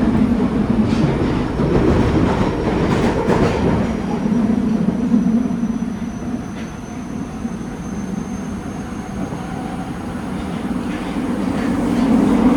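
A Nagoya Municipal Subway 2000 series train with a Hitachi GTO inverter, running, heard from on board: a steady rumble of wheels on rail. There are a few clicks in the first seconds and a faint high squeal in the middle. It is quieter in the middle and grows louder again near the end.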